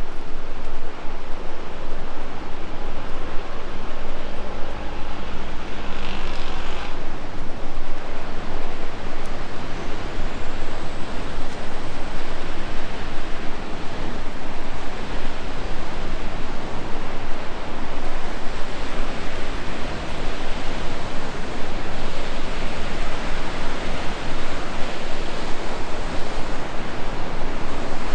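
Steady, loud rush of whitewater from the Tallulah River in the gorge.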